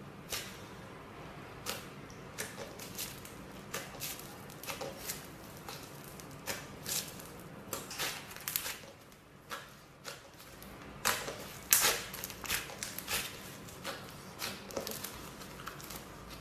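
Slime being squished and worked, giving irregular sticky clicks and pops, loudest in a cluster about two-thirds of the way through.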